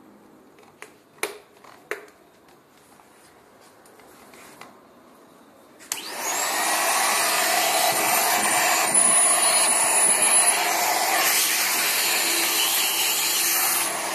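A few clicks, then about six seconds in a pet-hair dryer/vacuum turbine switches on and runs with a loud, steady rush of air and motor noise.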